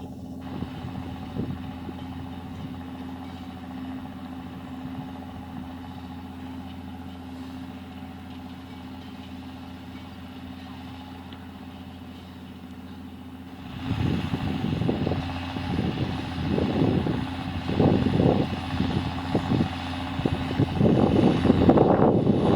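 John Deere tractor engine running steadily at a low hum while plowing. About two-thirds of the way in it suddenly gets much louder and rougher, with an uneven, gusty rumble.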